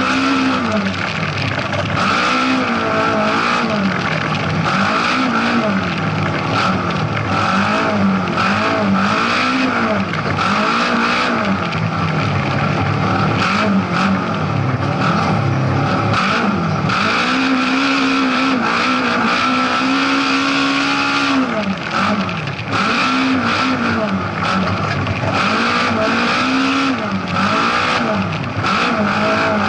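Rally car engine heard from inside the cockpit, revving up and falling back again and again as the driver accelerates, lifts and changes gear on a loose dirt stage. About halfway through it holds high revs for a few seconds, then drops sharply, with rattles and clatter from the car throughout.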